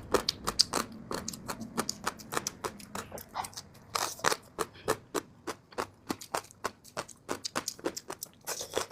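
Close-miked chewing of crunchy gongcai (dried celtuce stem strips): a rapid, irregular run of crisp crunches, several a second.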